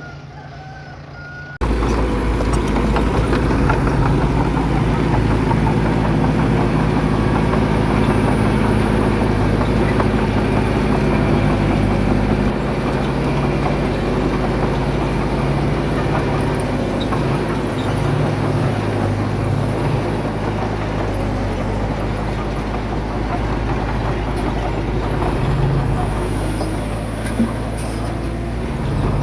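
Heavy diesel engine of earthmoving machinery running steadily. It cuts in abruptly about a second and a half in and drops a little in level about halfway through.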